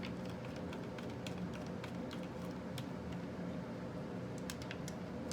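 Scattered light clicks and taps from handling the small parts and tools used to remount RC monster truck shocks, over a steady low hum.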